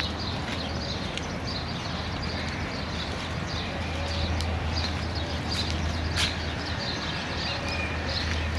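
Many small birds chirping: quick short chirps repeating without a break, over a steady low hum.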